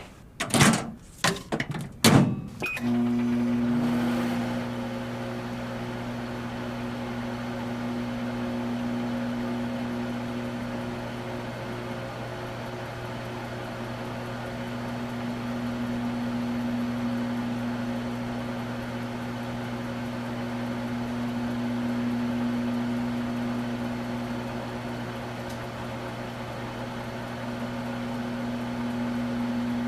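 A microwave oven started after a few sharp clicks in the first couple of seconds, then running with a steady low hum that gently rises and falls.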